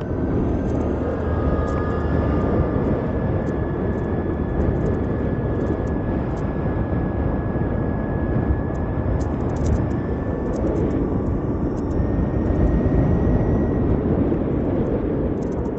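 Ather 450X electric scooter riding on the road: steady wind rush and road noise, with a thin, high electric-motor whine that slowly rises in pitch.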